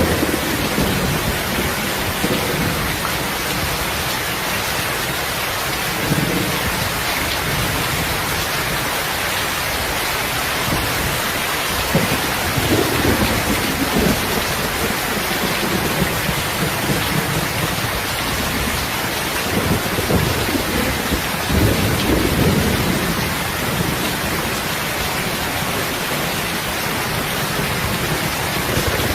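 Steady rain hiss with low rolling rumbles of thunder swelling up several times through it.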